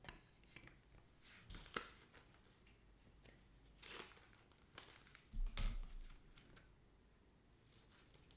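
Trading cards being slid into plastic penny sleeves and rigid top loaders by hand: faint, scattered plastic rustling and crinkling with small clicks, and a soft thump about five and a half seconds in.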